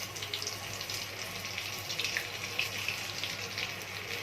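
Breaded shrimp sizzling and crackling as they deep-fry in hot oil in a pan, a steady hiss dotted with many small pops.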